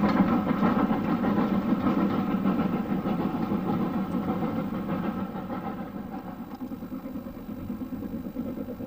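An engine running steadily, its sound gradually growing fainter.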